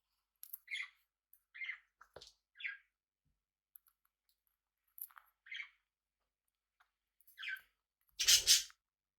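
Small pet parrots giving short single chirps, spaced about a second apart, with a gap in the middle. About eight seconds in comes the loudest sound, a brief harsh burst with a low thump underneath.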